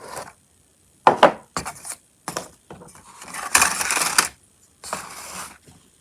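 Plastic HO scale model kit and its box being handled: a few sharp clicks and knocks, then a longer rustle and scrape about three and a half seconds in as parts are taken out.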